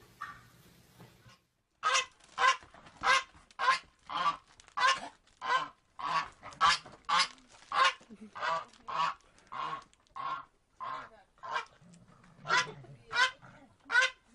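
Waterfowl honking over and over, about two harsh calls a second. The calls begin suddenly after a brief moment of silence near two seconds in.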